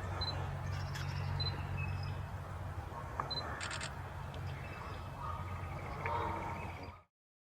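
Outdoor background sound: a steady low hum under a noisy hiss, with a few short high chirps, small clicks and a brief high rattle about three and a half seconds in. The sound cuts off suddenly about seven seconds in.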